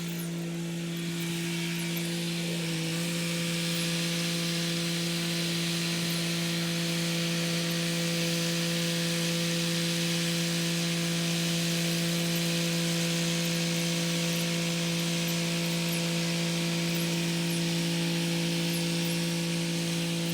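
Kubota SL35 tractor's diesel engine running steadily under load while driving a rotary tiller: a steady hum with a noisy hiss over it. The engine note dips briefly about three seconds in, then holds steady.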